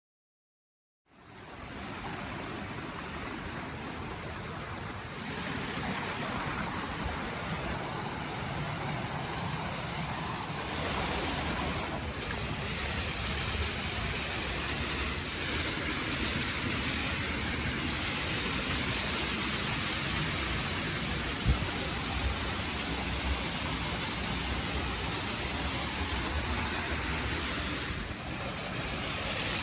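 Rushing water of a canyon waterfall and stream: a steady, dense rush that sets in after about a second of silence, its level shifting slightly a few times.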